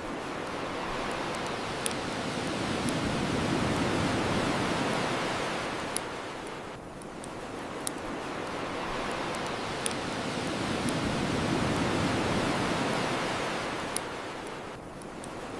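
Ocean waves washing onto a shore, swelling and falling back about every eight seconds, with sharp single pops from a crackling wood fire every second or two.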